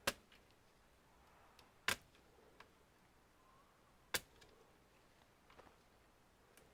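Three sharp clicks of small hard parts or tools being handled during computer disassembly, one at the start, one about two seconds in and one about four seconds in, with a few fainter ticks between.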